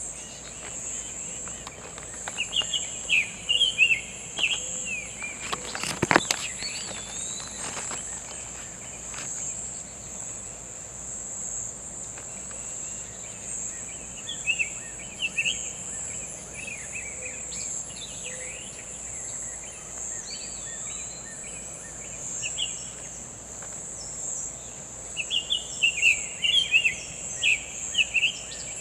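Summer tanager singing bouts of quick slurred whistled notes, three times, over a steady high-pitched insect buzz. A single sharp knock about six seconds in.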